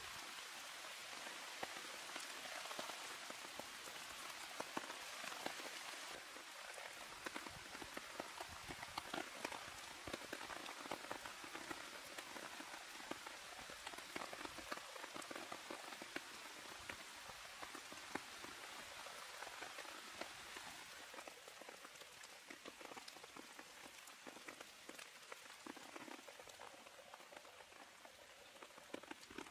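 Steady rain falling, a dense hiss of many small drop hits, easing a little near the end.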